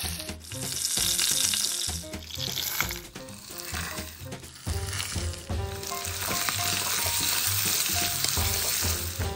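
Curry leaves sizzling in hot oil in an aluminium pressure cooker, loudest for the first couple of seconds. From about halfway, chopped vegetables fry with a steady sizzle as they are stirred. Soft background music plays underneath.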